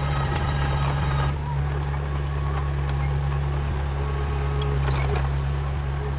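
Heavy diesel engine of earthmoving equipment running steadily, with a few light clicks and rattles, most of them about five seconds in.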